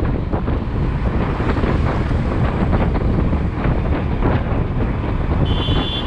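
Wind buffeting the microphone of a motorcycle riding through traffic, a steady low rumble with irregular gusts. A short high-pitched tone sounds about half a second before the end.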